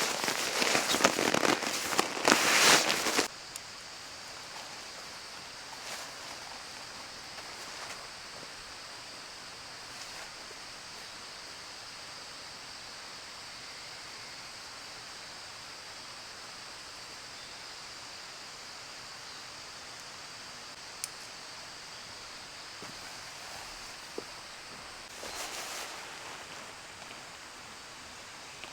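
Loud crackling and snapping for about three seconds, then a steady high insect chirring with a few faint ticks, and a brief rustle again near the end.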